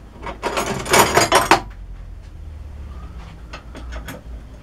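Steel spanners clinking and clattering against each other as they are rummaged through for the right size: a dense clatter for about a second near the start, then a few light clicks.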